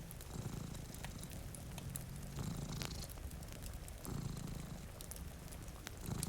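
Domestic cat purring, its low buzz swelling and easing in cycles about every two seconds as it breathes in and out. Scattered sharp crackles of a wood fire sound over it.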